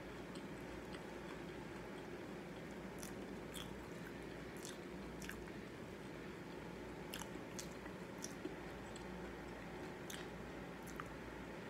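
Closed-mouth chewing of a mouthful of crunchy Cheerios Oat Crunch oat cereal, faint, with a sharp crunch every second or so, irregularly spaced, over a steady low hum.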